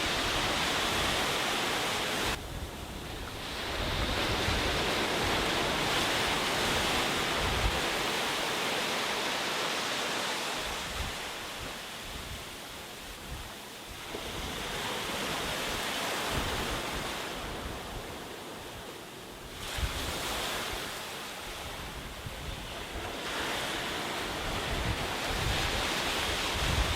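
Sea waves breaking on a beach: a steady wash of surf that swells and ebbs every few seconds, dropping off sharply twice. Wind buffets the microphone with low rumbles.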